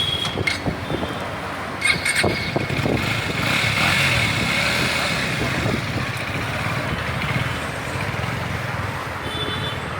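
Motor traffic noise: a steady rushing din with a few clicks and a brief high squeal about two seconds in, easing off toward the end.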